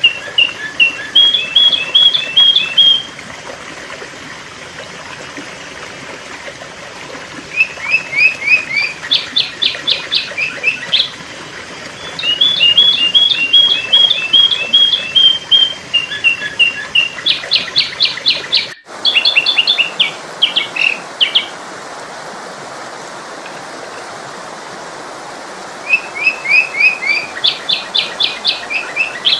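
Sooty-headed bulbul (kutilang) calling: bouts of fast, sharp, repeated chirping phrases with pauses of a few seconds between them, over a steady hiss. The recording drops out for an instant about two-thirds of the way through.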